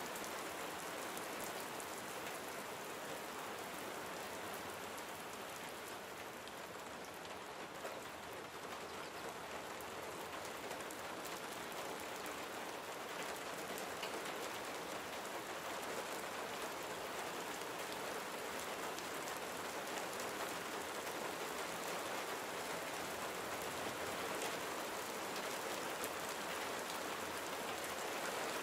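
Gentle rain falling steadily: a continuous even hiss of rain on surfaces, dotted with many small ticks of individual drops.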